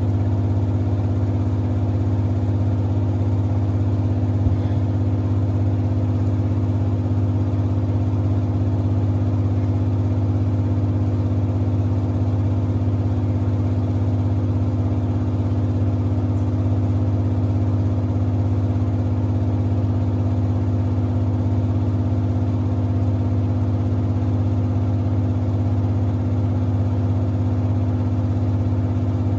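Samsung WD70T4047CE front-loading washer-dryer running mid-cycle while washing sneakers, giving a steady, even hum from its drum and motor. There is one brief knock about four and a half seconds in.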